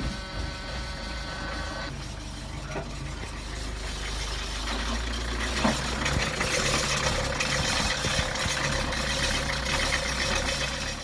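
Kubota marine diesel engine running with a terrible rattling, knocking sound, growing louder about halfway through. The crew suspects something has come loose in the timing system.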